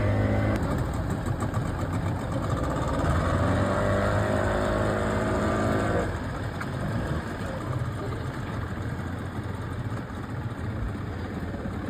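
Speedboat engine running, its pitch climbing slowly over the first several seconds; about six seconds in the tone drops away abruptly, leaving a lower, rougher engine rumble.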